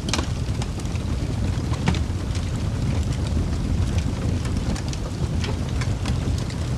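Wood fire burning in a fireplace: a steady low rumble of flames with irregular sharp crackles and pops throughout, including a louder pop right at the start and another about two seconds in.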